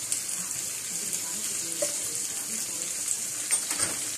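Sliced bitter gourd (karela) frying in hot ghee and oil in a frying pan: a steady crackling sizzle, with a few sharper crackles near the end.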